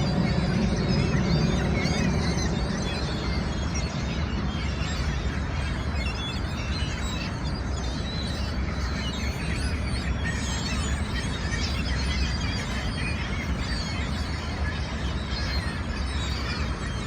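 A flock of gulls calling while feeding, many short overlapping cries over a steady low rumble.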